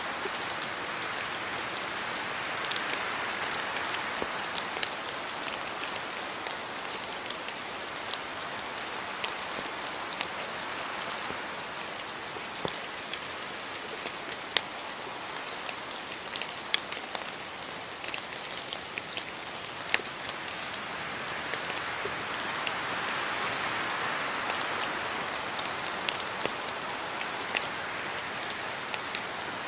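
Steady rain falling, a dense hiss with many sharp individual drops ticking and splashing on nearby surfaces.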